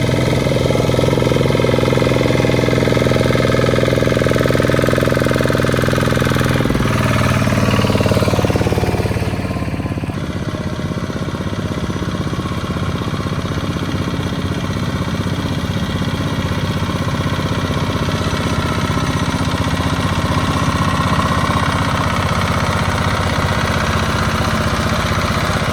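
Small two-wheel farm tractor engine running steadily under load, with a hard, knocking engine note. About a third of the way in the note shifts and eases a little, then runs steady again.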